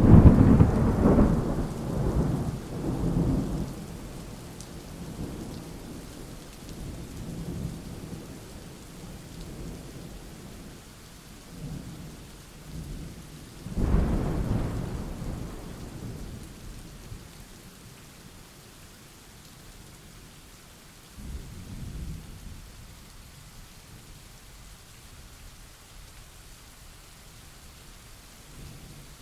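Thunderstorm: steady rain with rolling thunder. A loud clap of thunder right at the start rumbles off over a few seconds, another comes about halfway through, and a fainter rumble follows later.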